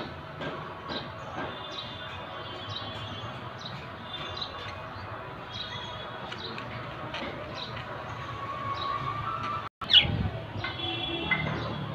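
Budgerigars chattering with quick, high chirps and warbles. About ten seconds in the sound cuts out for a moment, then comes back with louder chirping.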